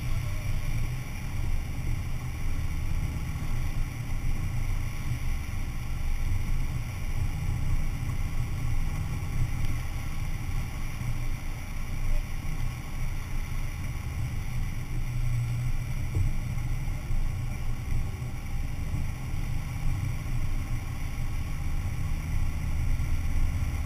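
A four-wheel-drive vehicle's engine running while driving, a steady low rumble.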